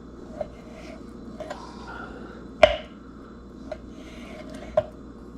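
Knife trimming fat off raw chicken, with about five sharp knocks, the loudest a little past halfway.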